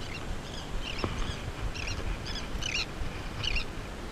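A bird calling in a run of short, repeated chirping notes, about two a second, over a low rumble of wind and water.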